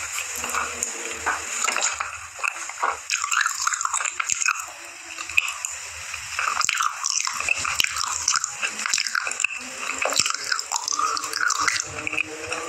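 A person chewing a dry slate pencil: wet, smacking mouth sounds with many irregular small crunches and clicks.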